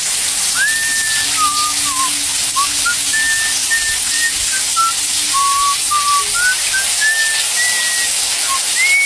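A tune whistled in short notes that step up and down in pitch, about two a second, over a loud steady high-pitched hiss.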